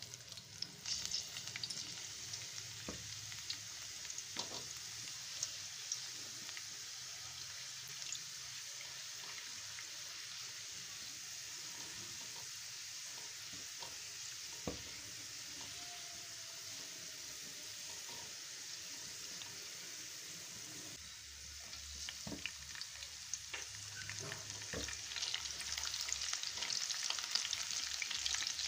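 Chopped garlic sizzling in hot oil in a steel pot, with scattered small pops, while a silicone spatula stirs it. The sizzle grows louder in the last few seconds.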